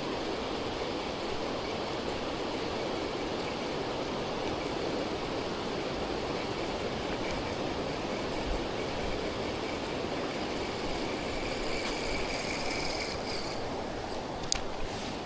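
Steady rush of water pouring through a weir, an even hiss without change, with one sharp click near the end.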